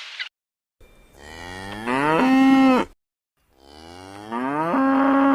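A cow mooing twice. Each moo lasts about two seconds, rising in pitch and then holding steady to its end.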